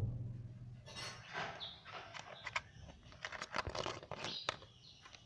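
Indian ringneck parrot chattering, with a string of short squawks and clicks from about a second in, after a low thump at the start.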